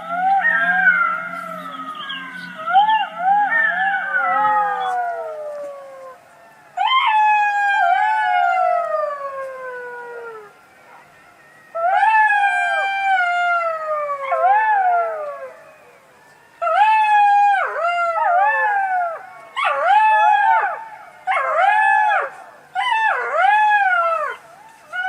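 Fox calling: quick wavering calls over a low steady hum for the first few seconds, then two long calls that slide down in pitch, each about three seconds. These are followed by a run of about six short calls that each rise and fall.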